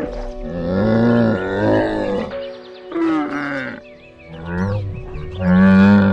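An animal calling several times: a long call, then three shorter ones, the last the loudest, over background music.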